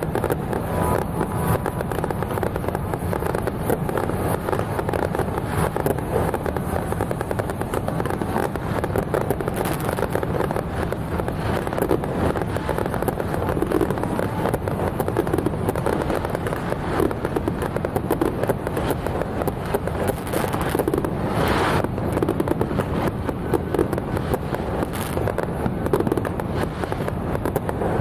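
Fireworks and firecrackers going off without pause in a dense crackle, with one louder burst about twenty-one seconds in.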